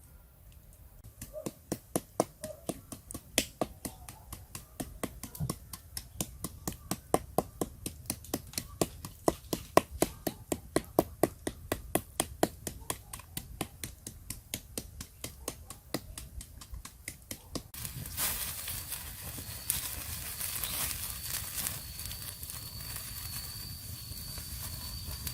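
Even, rapid knocks, about four a second, typical of repeated chopping or tapping on a hard surface. About 18 s in they stop abruptly and give way to a steady hiss with a thin, high, steady whine.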